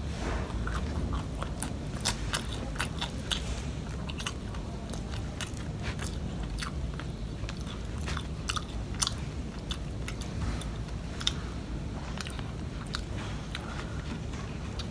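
Close-up mouth sounds of a person chewing rice and fried catfish: irregular wet smacks and crisp crunching clicks.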